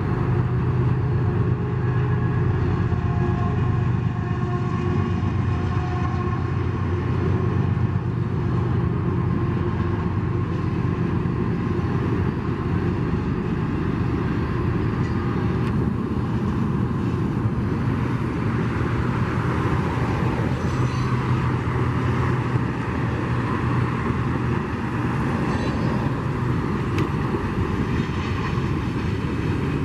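CSX coal train going by: the low, steady drone of its diesel-electric locomotives running over the continuous noise of steel wheels rolling on the rails.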